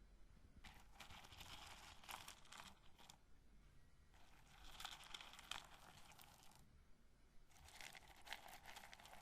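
Quiet crackling and clicking of roasted corn kernels being handled and rubbed together, in three bouts of a couple of seconds each with short pauses between.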